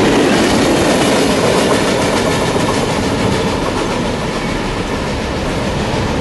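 Norfolk Southern freight train's hopper cars rolling past on the tracks, wheels clacking over the rail joints. The sound slowly fades as the end of the train moves away.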